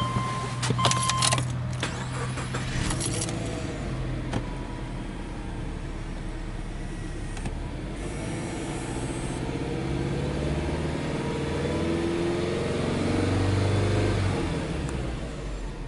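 Subaru Legacy Touring Wagon 2.0 GT's turbocharged EJ20 flat-four engine idling, then revved in neutral in one long rise to about 3,000 rpm that drops back near the end. A few sharp clicks sound about a second in.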